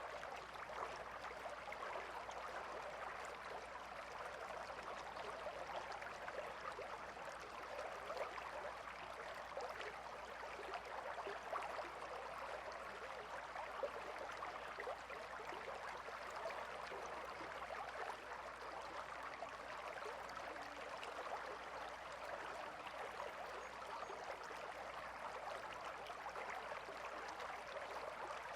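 Calm river flowing over stones, a steady babbling with small splashes and gurgles.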